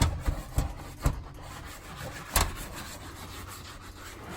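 Items being handled and set down: several knocks and thumps, the loudest about two and a half seconds in, over rubbing and scraping.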